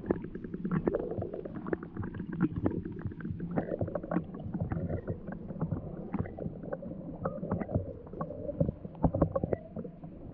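Muffled water sloshing and gurgling around a kayak, with many small irregular clicks and knocks.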